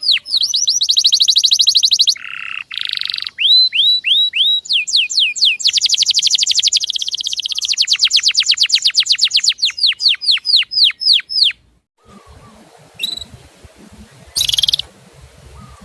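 Male canary singing fast rolls of repeated, downward-sweeping whistled notes, switching from one roll to another. About twelve seconds in the song cuts off abruptly and a quieter recording follows, with a low hum and a few short bird notes.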